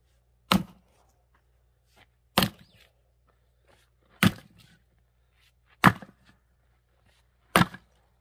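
Axe splitting firewood: five hard chops into wood at a steady pace, about one every two seconds, each a sharp crack with a brief rattle after it.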